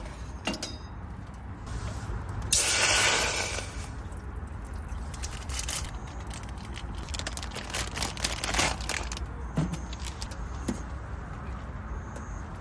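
Wood campfire crackling with scattered sharp pops, over a steady low rumble. A loud hiss a few seconds in lasts about a second.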